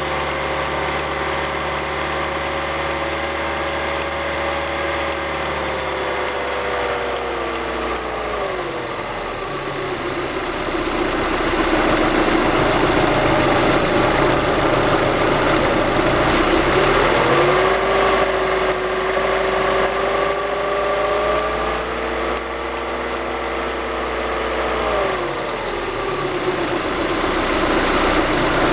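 PSA XU7JP4 1.8-litre 16-valve four-cylinder petrol engine, warm, held above idle, then dropping back to idle, revved up again and held, then falling back to idle. Small crackles come from it only under acceleration, and they fade as the engine warms up.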